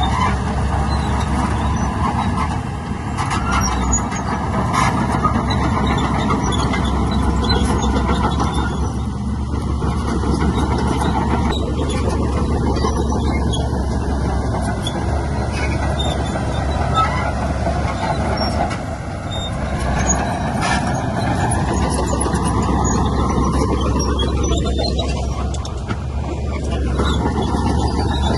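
Heavy diesel earthmoving machinery working steadily, with a deep engine rumble and scattered sharp knocks and clanks.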